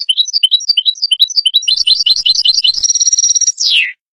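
European goldfinch singing: a fast series of twittering notes, then a buzzy trill, ending in a falling slurred note that cuts off just before the end.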